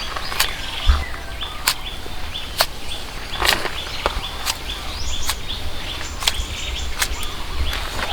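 Sharp knocks, about one a second at uneven spacing, with birds chirping.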